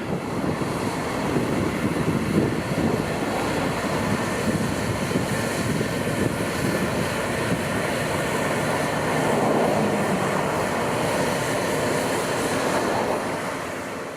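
Heavy farm machinery running steadily during the barley harvest, a dense mechanical noise with a faint engine hum underneath. It fades out near the end.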